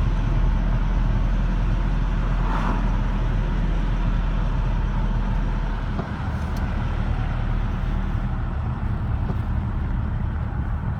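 Steady low rumble of a car's engine and tyres on the road, heard from inside the moving car's cabin; the rumble eases slightly about six seconds in.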